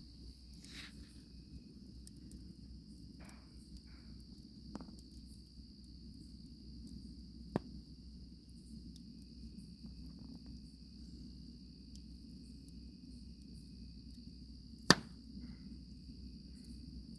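Campfire crackling, with a few sharp pops from the burning wood, the loudest one about fifteen seconds in, over a steady chorus of crickets chirring.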